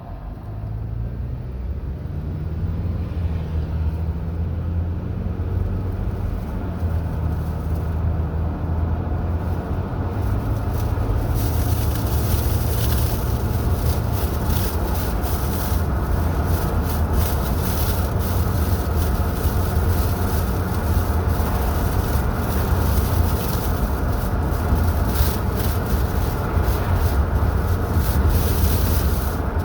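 Road vehicle driving: a steady low engine drone with road noise, growing louder over the first ten seconds. From about eleven seconds on, a rough crackling runs through it.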